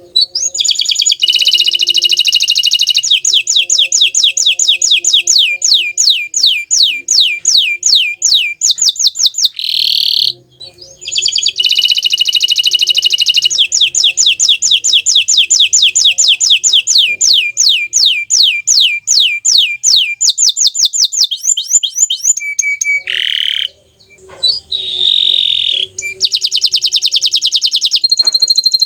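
Green canary singing long, fast trills of rapidly repeated downward-sweeping notes, with short breaks about ten and twenty-four seconds in.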